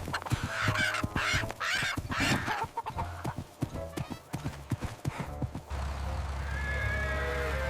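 Horse hooves clip-clopping in a quick run of knocks, with animal calls over the first couple of seconds. A steady low hum comes in about three-quarters of the way through.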